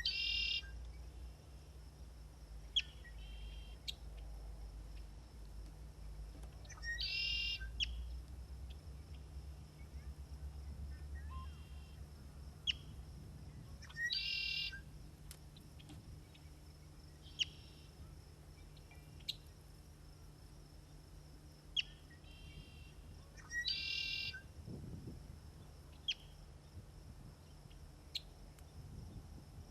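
A songbird repeating a short, rapid, high phrase about every seven seconds, with sharp single chip notes scattered in between.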